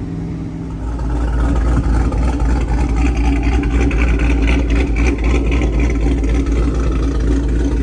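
Cammed V8 of a GMC Sierra pickup running at low load while driving, a steady low rumble that grows louder about a second in.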